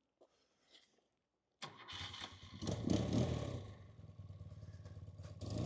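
1979 BMW R100S's air-cooled flat-twin boxer engine starting: the starter turns it over about one and a half seconds in, it catches and picks up revs briefly, drops back to a steady, evenly pulsing idle, and begins to rev up again near the end.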